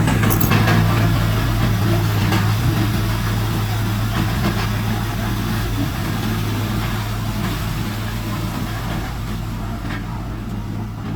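Heavy diesel engine of an earthmoving machine running steadily with a low hum. It comes in suddenly, loudest at first, and eases a little over the next seconds.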